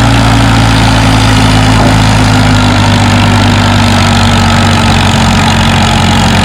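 Farmall H tractor's four-cylinder engine running steadily under heavy load as it pulls the sled down the tractor-pull track.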